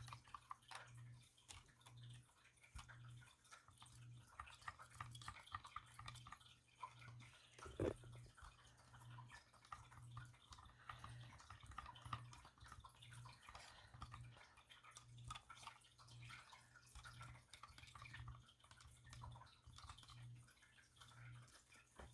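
Faint wet clicking and scraping of a stick stirring acrylic pour paint in a cup, with one louder click about eight seconds in, over a low steady hum.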